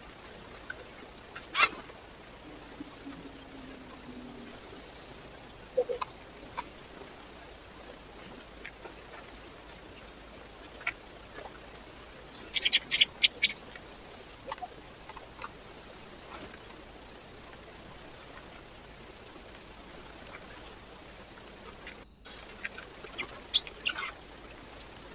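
Birds at a feeder: scattered short, sharp taps and chirps, with a quick run of them about halfway through, over the steady hiss of a trail camera's microphone.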